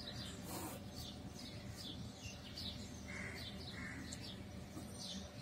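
Faint birds chirping in the background, short high chirps repeating every fraction of a second, with the soft scratch of a ballpoint pen writing on paper.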